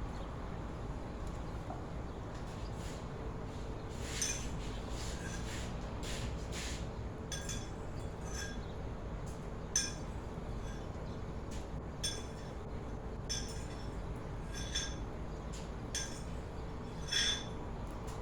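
Kitchenware clinking during cooking: a dozen or so short, ringing clinks at irregular intervals, starting about four seconds in, over a steady low hum.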